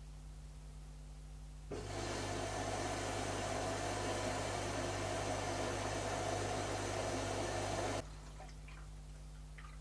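Zanussi ZKN7120L washing machine running mid-cycle: a steady rushing sound with a mains hum starts about two seconds in and cuts off suddenly about eight seconds in, leaving a quiet background hum.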